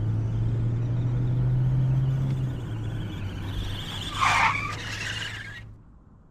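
Electric RC airplane's motor and propeller running steadily, then a short loud burst of noise about four seconds in, after which the sound fades away.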